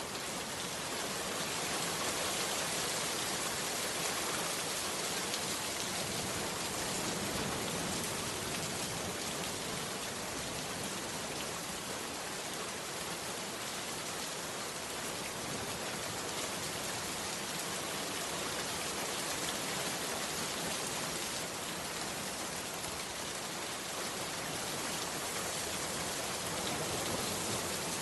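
Heavy rain falling steadily, a dense even hiss of many drops. It swells up over the first second or so.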